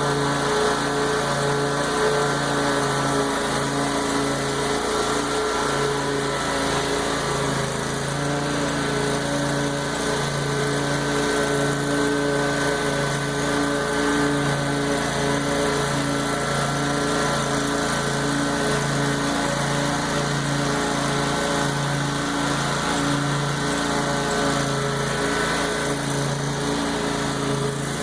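Petrol lawn mower engine running steadily while cutting overgrown tall grass, its hum pulsing unevenly in strength.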